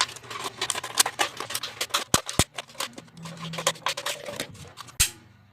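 Scissors cutting through a plastic mineral water bottle: continuous crackling of the thin plastic, with a few sharper snips and snaps.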